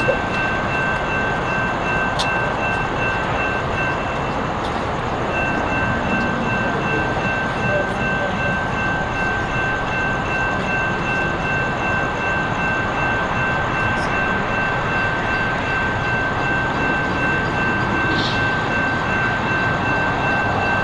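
Diesel commuter train standing at the station with its engine and ventilation running: a steady, even rumble with a faint high whine held throughout.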